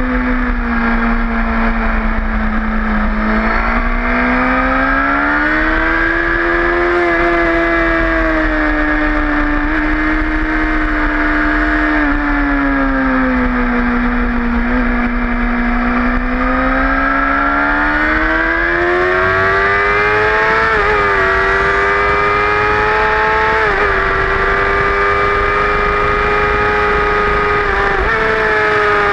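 Sport motorcycle engine heard from an onboard mount at speed on a race track, revs falling and climbing in long sweeps through the corners and rising to a higher pitch in the second half, with three brief dips in pitch. Steady wind rush lies underneath.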